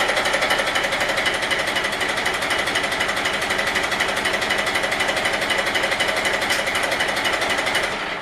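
A Yamaha YDX28 boat's engine running steadily, with a rapid, even clatter.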